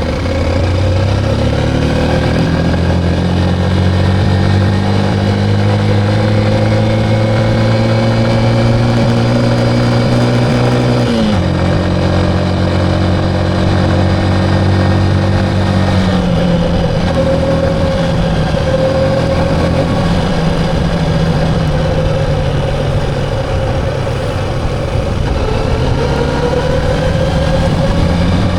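Motorcycle engine under way, its pitch climbing steadily for about ten seconds as it accelerates, then dropping sharply at a gear change, dropping again a few seconds later, and climbing once more near the end.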